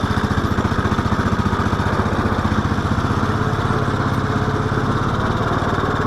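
SAE mini-Baja car's small single-cylinder engine running steadily at an even pitch.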